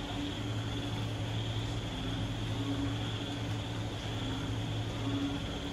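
Moderate rain falling steadily, with a constant high drone from night creatures and short, low frog calls recurring every second or so.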